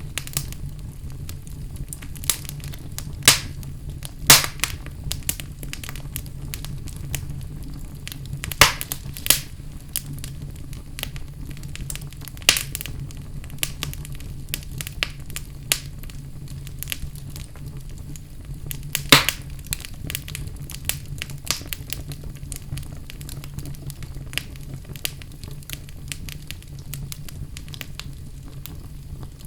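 Wood fire burning in a fireplace: a steady low rumble of the flames with irregular crackles and sharp pops from the logs, the loudest a few seconds in and about two-thirds of the way through.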